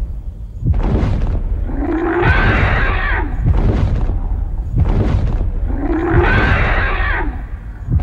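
An animal calling twice, two harsh calls of about a second each roughly four seconds apart, over a steady low rumble.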